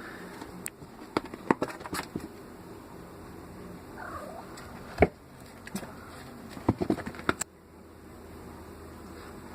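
Scattered sharp knocks and scuffles, some in quick clusters, from a house cat batting and pouncing on a caught bird, with a short faint wavering cry about four seconds in.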